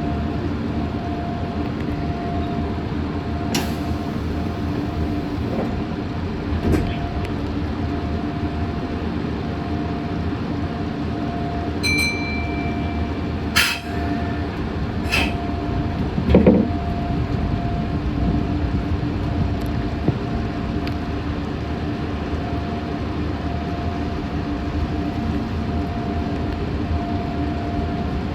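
Meitetsu 6500 series electric train running, heard from inside the car: a steady rumble with a constant hum and a few sharp clicks along the way.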